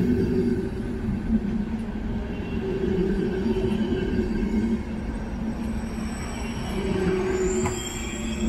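Czech Railways passenger coaches rolling past on the rails, a steady rumble with a droning hum from the wheels.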